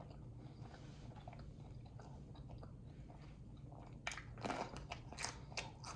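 Faint close-up chewing of crab meat, with a few sharper crunches and clicks starting about four seconds in.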